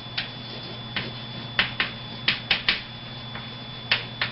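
Writing on a board: a string of short, sharp taps and scratches, about nine in four seconds at an uneven pace, over a faint steady hum.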